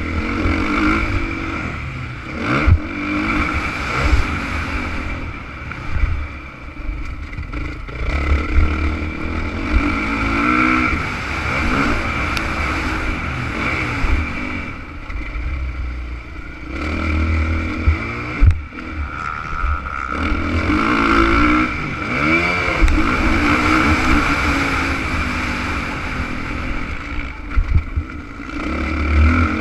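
Honda CRF450 motocross bike's four-stroke single-cylinder engine, revving up and falling back over and over as it is ridden, with a few sharp knocks along the way.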